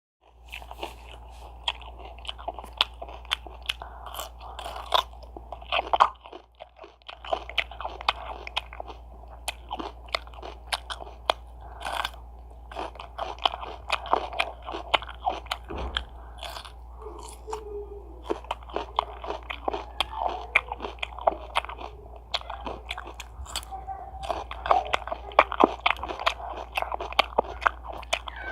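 Close-miked crunchy eating: a rapid, irregular run of bites and chewing crunches, with a brief pause about six seconds in, over a steady low hum.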